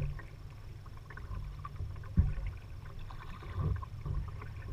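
Kayak being paddled: paddle strokes in the water, with a sharp knock about two seconds in and a softer one later, over a steady low rumble.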